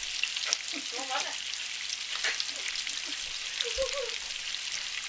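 Onion and meat frying in a pan: a steady sizzle with small scattered crackles and pops.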